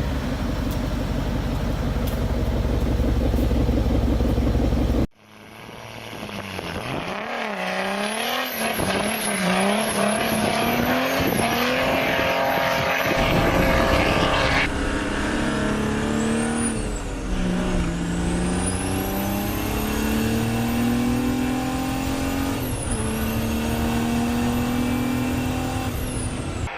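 Diesel car engine. First it runs steadily at a low, even pitch; after a sudden cut about five seconds in, it is revved up and down several times, then accelerates hard with long rising pitch, dropping once near the end at a gear change before climbing again. A faint high whistle rises and falls with the revs.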